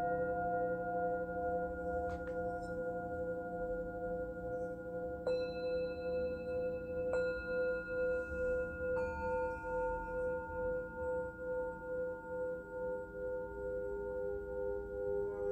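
Several singing bowls ringing together in long, wavering tones. Fresh strikes add new notes about five, seven and nine seconds in, and a lower tone swells in near the end.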